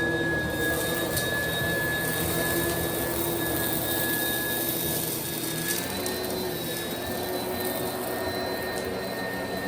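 Oreck XL upright vacuum cleaner running on carpet, its motor giving a steady high whine over a rushing airflow. A few faint ticks come from kitty litter grains being picked up.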